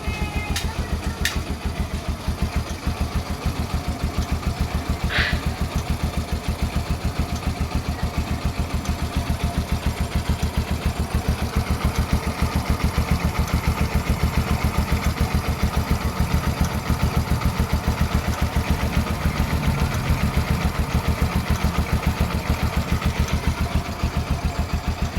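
Bajaj CT 100's single-cylinder four-stroke engine idling steadily, freshly rebuilt with new bearings, clutch and pressure plate. A few light clicks are heard near the start.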